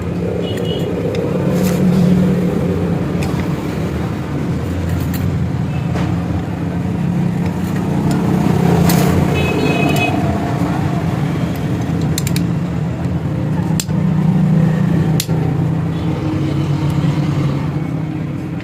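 A motorcycle engine running steadily at a constant speed, with sharp clicks and knocks scattered over it and voices in the background.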